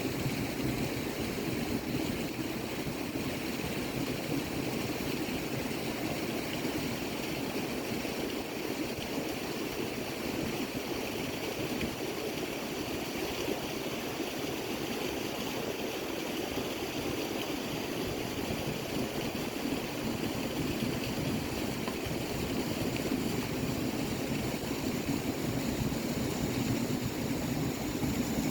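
A river running: a steady rush of flowing water.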